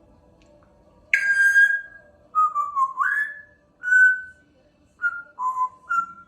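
African grey parrot whistling a tune: a string of about six clear whistled notes of different pitches, one dipping and then sliding up, with short gaps between them.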